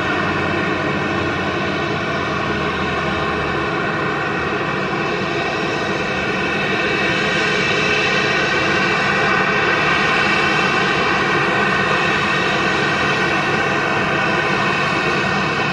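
Boeing 737-800's CFM56 jet engines running with a steady whine over a broad rush of noise, growing somewhat louder around the middle.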